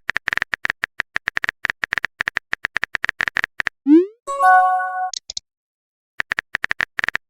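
Texting-app sound effects: rapid phone keyboard typing clicks for about three and a half seconds, then a rising swoosh as a message is sent and a bright chime-like alert tone. After a short gap the typing clicks start again.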